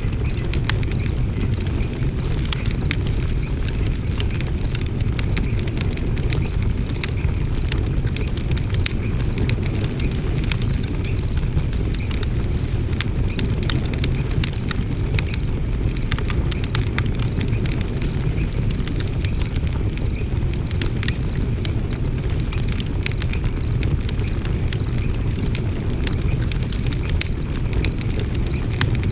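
Wood fire burning in a Makulite fire pit, with steady crackling and scattered pops over a low rumble of flames.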